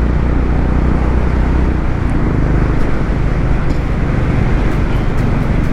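Motorcycle riding at road speed: a steady engine hum under heavy wind rush on the microphone.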